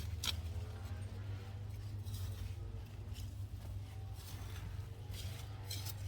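Hands digging through loose soil in a potato container, with a few short rustling scrapes near the start and again near the end, over a steady low hum.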